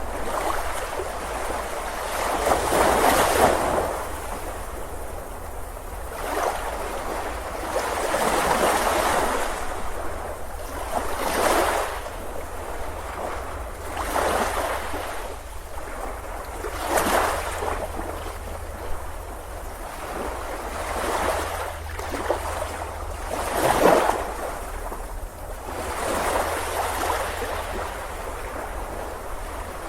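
Ocean waves breaking on a beach: a wash of surf swells and falls back every few seconds over a steady low rumble.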